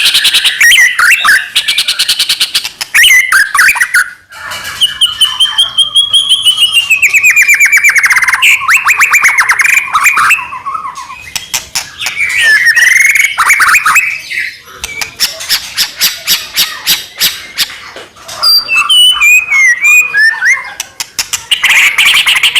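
White-rumped shama (murai batu) singing a loud, full song: fast rattling trills and chatter mixed with whistled phrases that sweep up and down, with a brief pause about four seconds in. This kind of energetic song is used to provoke other shamas into singing.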